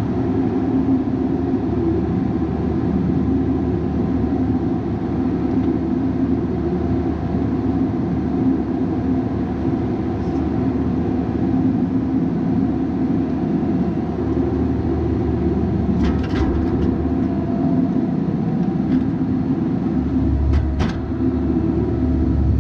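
Bobcat 337G mini excavator's diesel engine running steadily while working, with a few short sharp knocks about two-thirds of the way through and again near the end.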